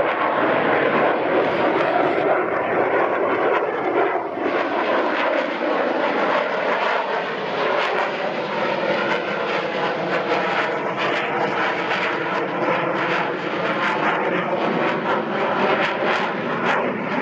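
Jet aircraft flying low past the show line, a loud, steady jet engine roar that holds throughout with only small swells.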